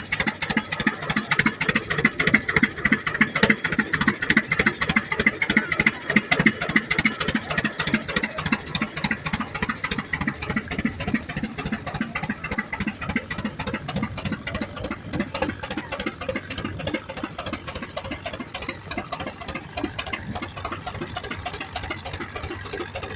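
Tractor engine running with a steady, even exhaust beat, growing a little quieter in the second half.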